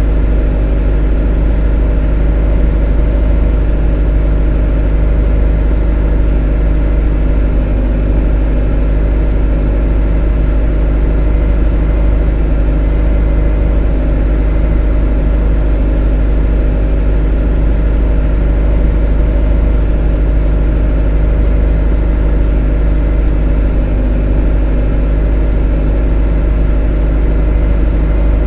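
A motor running steadily: a continuous, unchanging drone with a deep low rumble and several steady tones above it.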